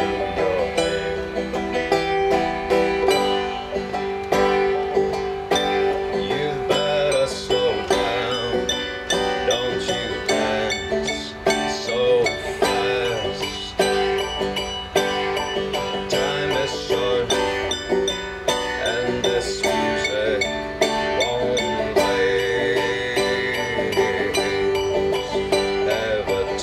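Instrumental stretch of an acoustic song with a banjo picked in a steady stream of notes over sustained accompaniment, without vocals.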